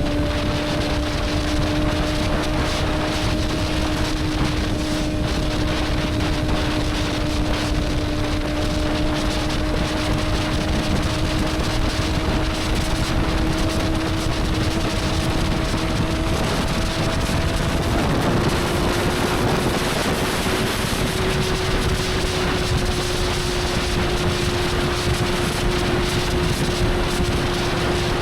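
Motorcycle engine running at a steady cruising speed, its note slowly rising, with wind rushing over the microphone. About 18 seconds in there is a brief rush of noise and the engine note steps up slightly and holds steady.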